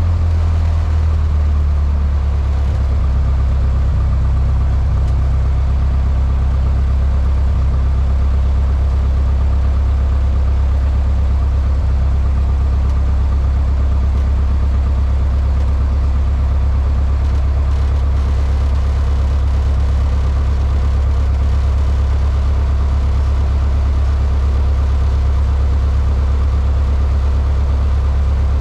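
Cessna 152's four-cylinder Lycoming piston engine running at a steady speed, a loud, even low drone heard inside the cockpit. Its pitch settles slightly lower about a second in.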